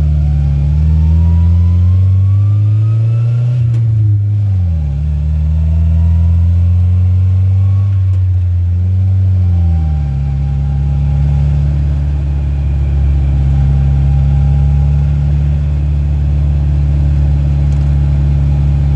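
Farm-truck rat rod's engine pulling under acceleration: the revs climb, drop sharply at a gear change about four seconds in, and climb again. They fall once more at a second change about halfway through, then hold steady at cruising speed.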